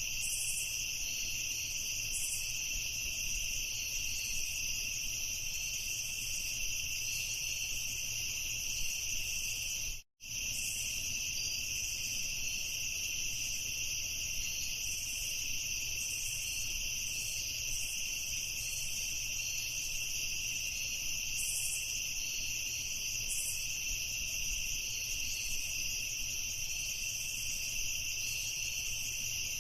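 A chorus of crickets chirping in a steady, continuous high trill. About ten seconds in it cuts out completely for an instant, then resumes unchanged.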